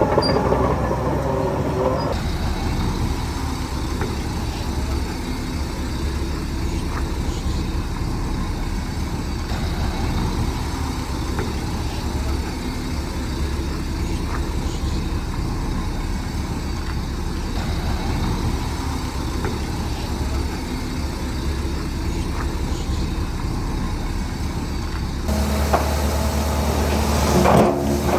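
Heavy diesel earth-moving machinery running steadily, a low engine rumble. About three seconds before the end it grows louder, with a short sharp burst of noise near the end.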